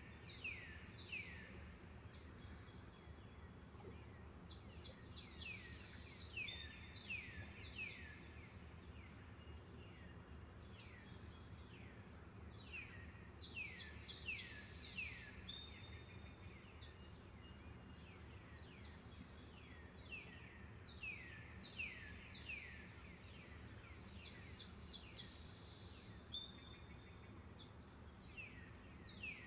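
Forest songbirds singing: phrases of quick, downward-sweeping whistled notes repeated every few seconds, over a steady high-pitched insect drone and a faint low rumble.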